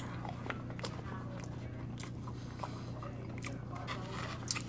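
Close-up chewing of a bite of spam musubi, fried spam on rice, with scattered wet mouth clicks and a sharper click near the end, over a steady low hum.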